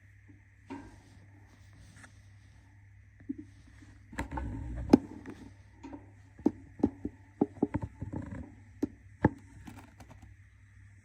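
A budgie moving about its cage, making a run of sharp taps and scratchy knocks from about four seconds in, over a steady hum.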